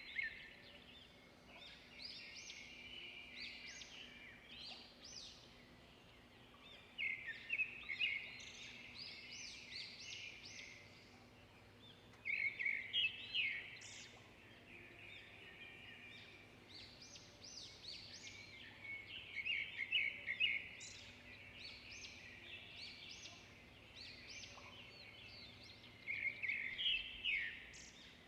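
Songbirds singing: bursts of quick, high chirps and trills recur every six or seven seconds, with quieter twittering in between.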